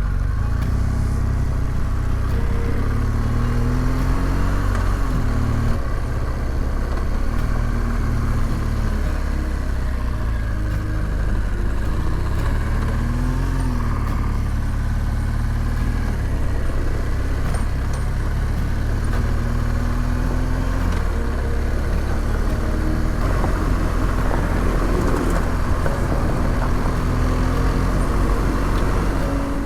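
Adventure motorcycle engine running while being ridden, its pitch rising and falling a few times with the throttle and gear changes, over a steady rush of wind and road noise.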